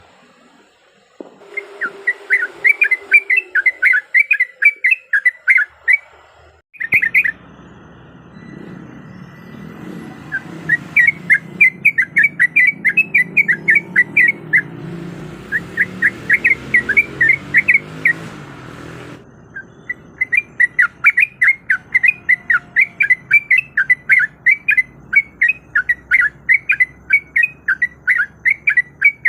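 Yellow-vented bulbul (trucukan) singing: bouts of rapid, bubbly chattering notes repeated many times a second, with short pauses between bouts. The background changes abruptly twice, a low hum coming in about seven seconds in and dropping out near nineteen seconds.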